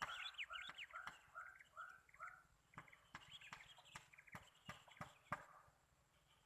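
Faint bird calls: a run of short repeated notes, about three a second, with quick higher chirps over them and scattered sharp clicks.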